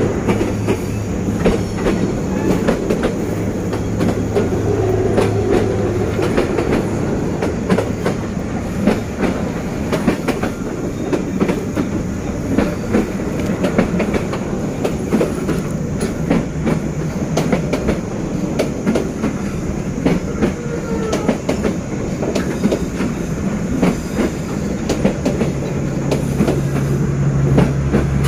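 Passenger train hauled by a D19E diesel-electric locomotive running past, its wheels clicking steadily over the rail joints with a low engine hum underneath that grows louder near the end.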